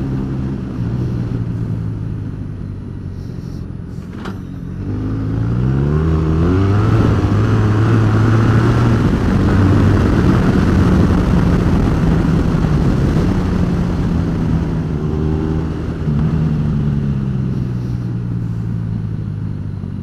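Honda Crosstourer's 1200 cc V4 engine under way on a dirt track. The revs ease off at first, then climb steeply about five seconds in as the bike picks up speed, and hold steady under a haze of wind and road noise before falling away again near the end.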